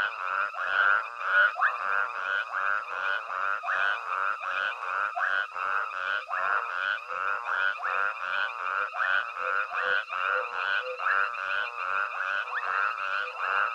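Chorus of many frogs calling over one another: a dense, unbroken run of short repeated calls, two or three a second, over a steady high trill.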